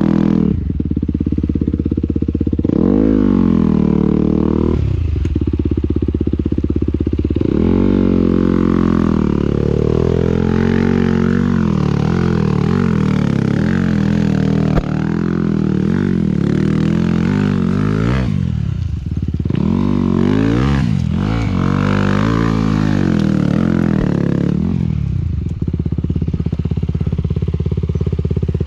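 Motocross motorcycle engine being ridden hard, its pitch rising and dropping back again and again as the throttle is opened and closed, steadier near the end.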